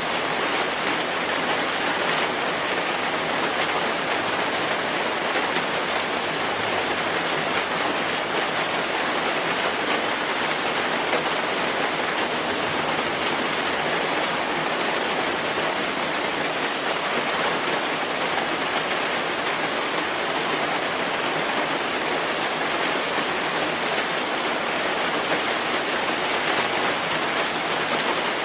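Steady rainfall, a dense even hiss of rain falling on a surface, with fine patter of individual drops.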